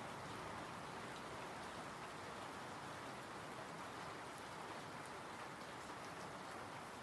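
Steady, even rainfall with faint scattered drop ticks, a calm night rain.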